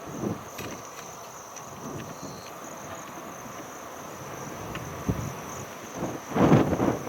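Insects chirping as a steady high-pitched drone, with a short, loud low rumble near the end.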